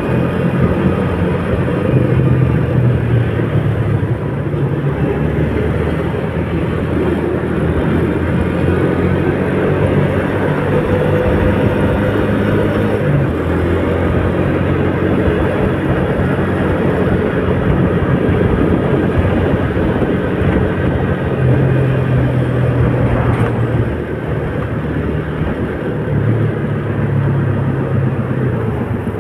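A motor vehicle driving in heavy rain: the engine runs with shifting pitch under a steady hiss of rain and wet road noise.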